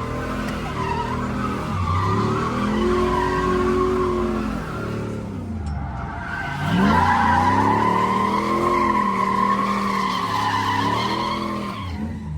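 Drift car engines revving up and falling back in two long sweeps, with tyres squealing through a tandem drift. The squeal grows louder from about seven seconds in.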